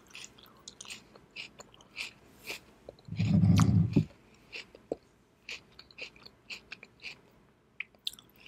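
Close-miked chewing of shredded daikon radish garnish: a run of short, irregular mouth clicks and smacks. About three seconds in comes a loud low rumble lasting about a second.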